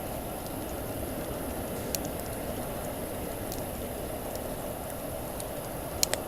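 Campfire burning with a steady rushing hiss and a few sharp wood pops: one about two seconds in and two close together near the end.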